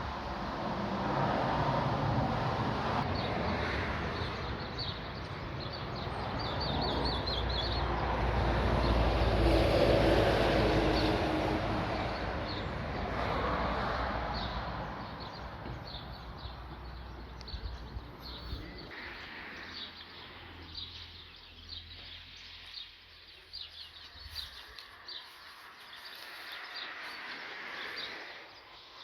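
Small birds chirping over outdoor ambience, while a vehicle passes by, loudest about ten seconds in and fading away by about twenty seconds.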